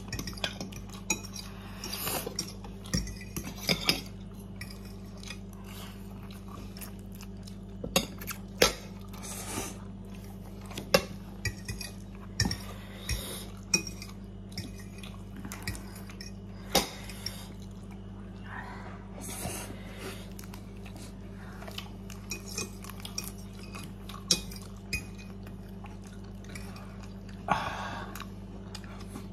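Utensils knocking and clinking against a ramen bowl while eating, in scattered clicks through the whole stretch, over a steady low electrical hum.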